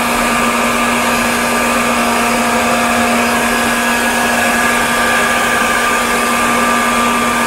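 Small electric motor and fan of a homemade smoke machine running steadily, a constant hum with an airy hiss.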